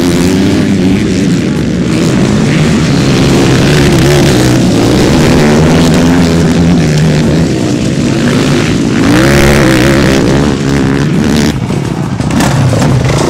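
Motocross bike engines running hard, their pitch climbing and dropping again and again as they rev through the gears, with a dip in level about twelve seconds in.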